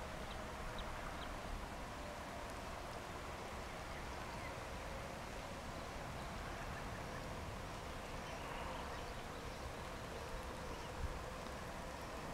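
Steady outdoor background noise after rain, with faint high chirps here and there and one short low knock about eleven seconds in.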